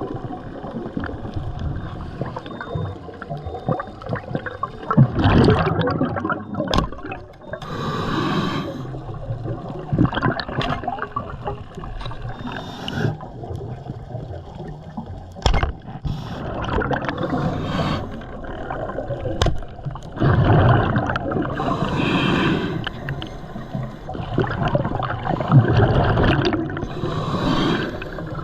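Water gurgling and sloshing around a camera in the water, in irregular surges a few seconds apart.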